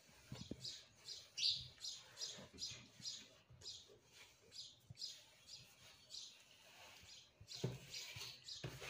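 A small bird chirping, quick high chirps about three a second that pause briefly around the middle and pick up again near the end. Under the chirps there is a faint rustle of denim as a heavy iron is worked over the jeans and the cloth is smoothed by hand.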